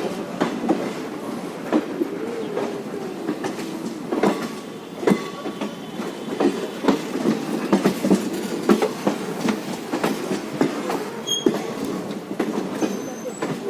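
Passenger express train running on the rails, its wheels clattering over the rail joints in a constant rumble broken by frequent irregular sharp clicks, with a few brief faint wheel squeals.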